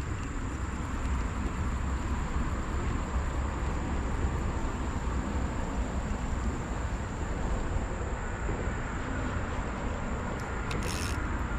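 Steady outdoor creek ambience: a continuous rushing noise with a low rumble, a thin, steady high-pitched tone throughout, and two short hissy bursts near the end.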